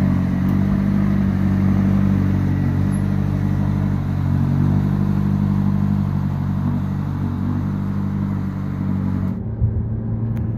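McLaren 570S's 3.8-litre twin-turbocharged V8 running at a steady idle. About nine seconds in the sound cuts abruptly to the car's cabin on the move, with lower engine and road noise.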